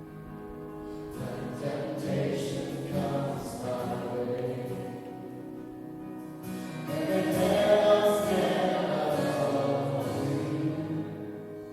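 Several voices singing a worship song together, with held notes, swelling loudest about two-thirds of the way through.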